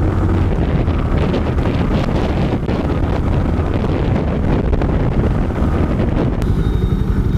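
Wind buffeting the microphone on a moving motorcycle, with the engine's steady low note underneath.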